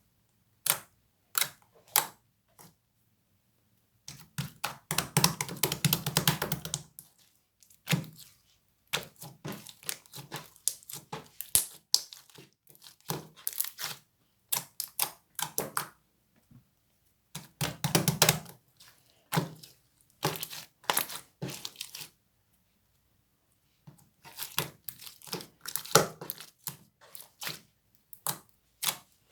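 Plastic packaging of grape jelly candies crinkling and tearing, handled close up, with many sharp clicks and taps. The sounds come in bursts with short pauses between them, and the longest crinkling stretches are about 4 to 7 seconds in and again around 18 seconds.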